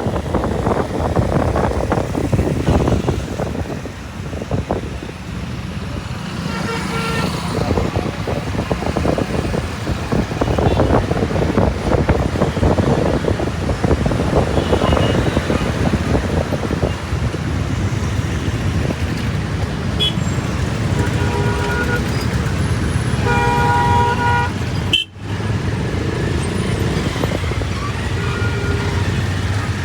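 Dense road traffic heard from a moving motorbike: a steady rumble of engines, tyres and wind, with vehicle horns honking several times, the loudest cluster a few seconds before the end. The sound cuts out for an instant shortly after.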